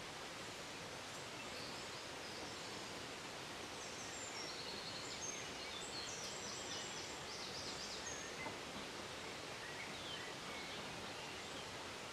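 Quiet outdoor ambience: a steady hiss of background noise with birds singing in short, high chirping phrases, most of them in the middle.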